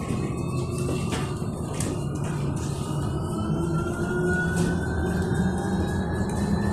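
Electric bus traction motor whining, the whine rising slowly in pitch as the bus accelerates, over the low rumble of the ride, with a few short rattling clicks.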